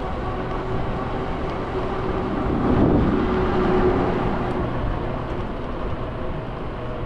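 Street traffic heard from a moving scooter: steady road noise and hum, with a louder vehicle passing close by about three seconds in.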